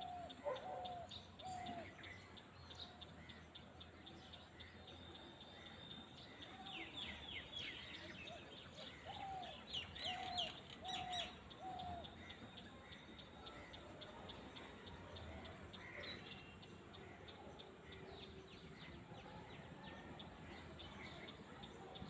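Wild birds calling in the open: runs of three or four short mid-pitched notes repeat every half second or so, with a flurry of quick high chirps and falling calls in the middle. A steady fast high ticking runs underneath.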